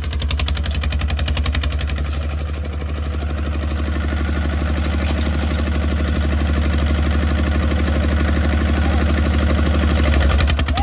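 Kubota RT155 single-cylinder diesel tractor engine running with a rapid, even chugging beat. The sharp exhaust cracks ease off about two seconds in, then the engine grows steadily louder toward the end.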